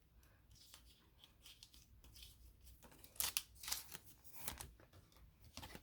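Hockey trading cards being handled and slid against one another: faint, scattered clicks and rustles, with a few sharper card snaps about three seconds in.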